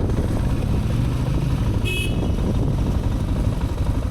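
Motorcycle engine running with a steady low rumble, and a short, high-pitched horn beep about two seconds in.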